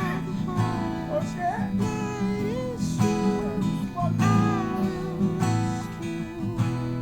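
Acoustic guitar music: strummed chords underneath, with a melody above them that slides between notes.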